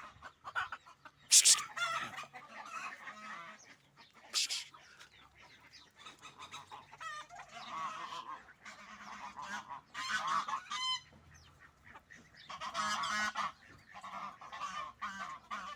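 Domestic fowl squabbling: repeated honking calls, with two sharp, loud squawks in the first few seconds.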